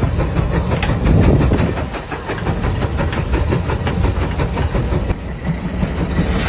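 Large steam traction engine running, with a steady mechanical clatter.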